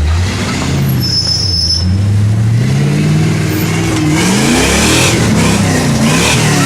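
Jeep engine revving hard under load as it climbs a rock ledge: the pitch climbs over the first few seconds, then swings up and down. A rush of noise joins it from about four seconds in.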